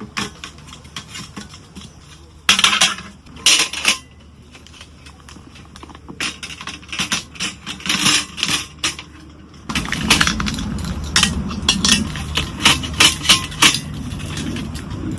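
Small hard objects clicking, clinking and knocking as they are handled, with a few louder knocks about two and a half and three and a half seconds in. A denser run of clicks begins about ten seconds in, over a low steady rumble.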